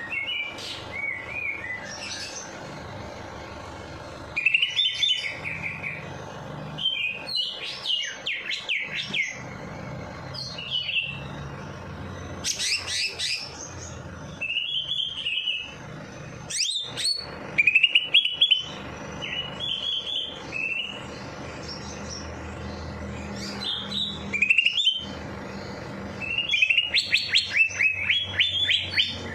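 Songbird singing in repeated bursts of chirps, whistles and fast trills with short pauses between phrases.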